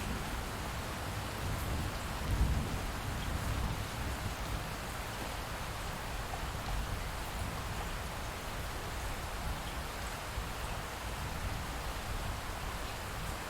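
Steady light rain, with a brief low rumble of distant thunder about two seconds in.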